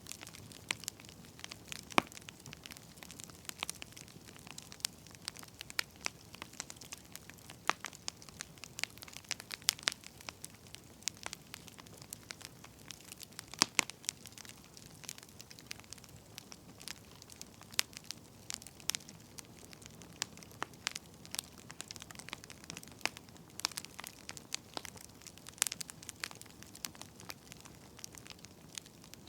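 Wood fire crackling: irregular sharp pops and snaps, some louder than others, over a soft steady hiss.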